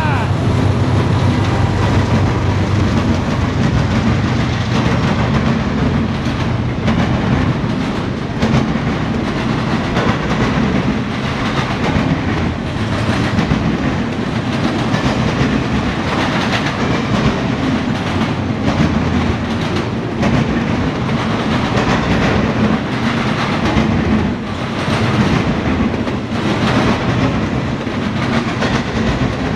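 A CSX freight train passing close by. For the first few seconds a diesel locomotive's engine drones steadily. After that comes the constant rolling noise of double-stack container well cars, their steel wheels clicking over the rail joints.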